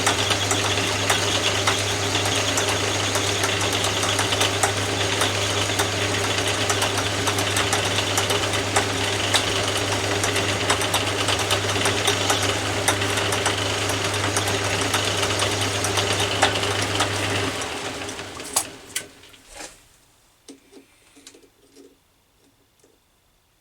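Atlas 10 metal lathe running steadily with a low hum and a fast patter of small ticks while a pass is taken on a brass spigot. About 17 seconds in it is switched off and spins down, leaving only a few faint clicks.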